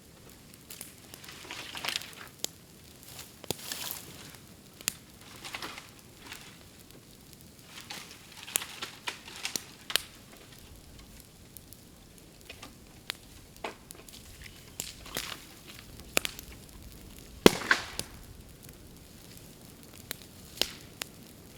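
Bamboo burning in an open bonfire, hissing and crackling with irregular sharp pops and cracks, as heated air and steam burst out of the hollow stems. One louder crack comes about three-quarters of the way through.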